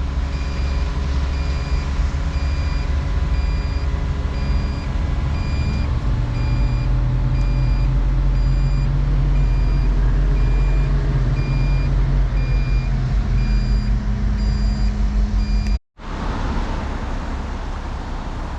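Volvo 235EL excavator's diesel engine running under load while its travel alarm beeps steadily, about once or twice a second; the engine works harder from about six seconds in. Near the end the sound cuts off for an instant and the engine carries on without the beeps.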